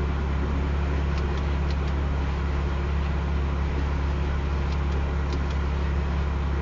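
Steady low rumble heard inside a car's cabin, with a few faint, scattered high ticks.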